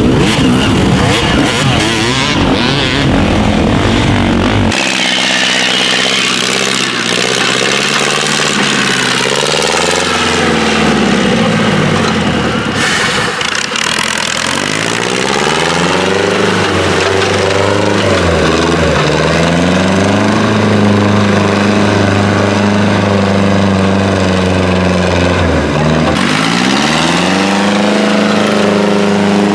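A tractor engine running hard, its pitch climbing and sagging several times as it revs up and drops back. The first few seconds are a dense, loud rush of noise before the engine note comes through clearly.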